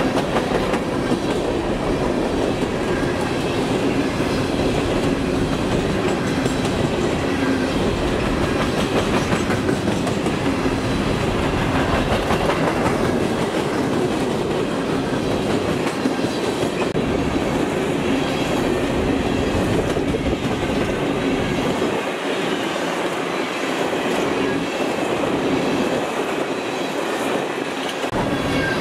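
Empty coal train's steel gondola cars rolling past at speed, a steady rumble and clatter of steel wheels on rail.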